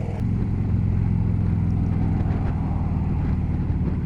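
Harley-Davidson touring motorcycle's V-twin engine running steadily at low revs, a deep even engine note.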